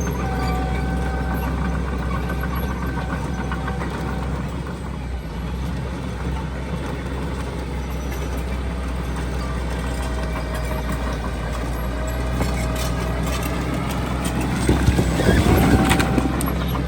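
Heavy diesel earthmoving machinery running steadily with a low drone. Near the end it gets louder, with a burst of clanking and a rising whine.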